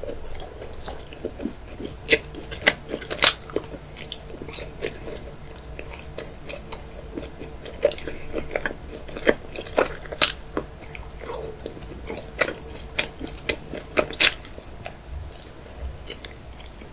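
Close-miked chewing and biting of an aerated milk chocolate bar: irregular sharp clicks and crunches in the mouth.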